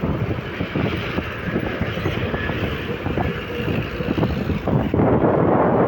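Road vehicle running along, with rattling and wind buffeting the microphone; the wind noise grows louder about five seconds in.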